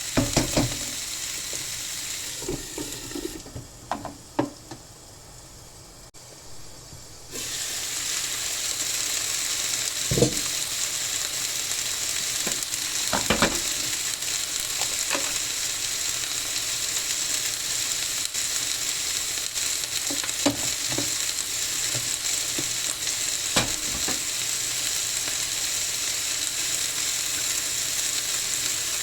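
Food sizzling in a hot pan, with scattered clinks and scrapes of a utensil stirring it. The sizzle drops away for a few seconds near the start, then resumes steadily.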